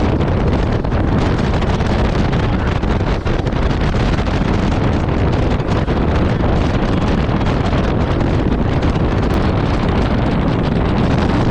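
Storm wind buffeting the microphone on a boat under way, a loud, dense, unbroken rush with a heavy low rumble.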